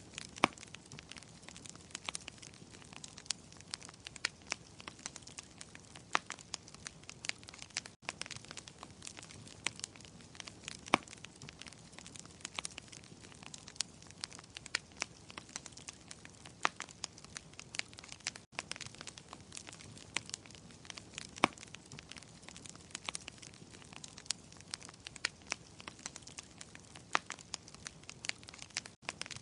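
Wood fire in a fireplace crackling, with many irregular sharp pops and snaps over a low steady hiss of burning.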